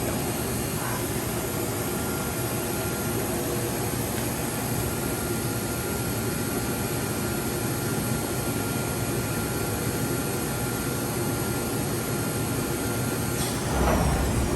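Johnford DMC-1200HN gantry CNC machining center running: a steady mechanical hum and hiss with a thin, steady whine. Near the end the whine stops and a louder low rush sounds briefly.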